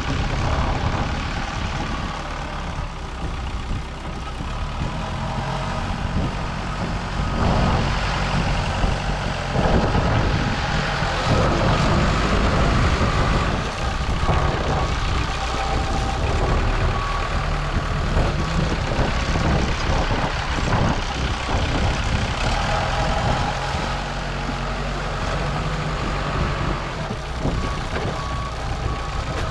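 Diesel engine of heavy earthmoving equipment running under load as it moves fill dirt, rising and falling in level. Near the end there is a repeated high beep.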